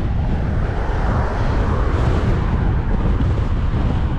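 Strong headwind buffeting an action camera's microphone in a steady, loud rumble, let through by a baggy, worn foam windshield.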